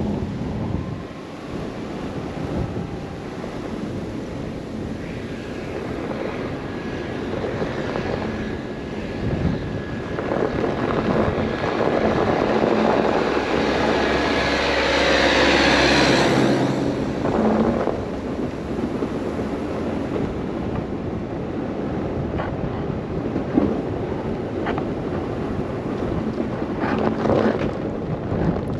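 Blizzard wind buffeting the microphone over the steady rumble of a car driving on a snowy road. It swells louder for a few seconds around the middle.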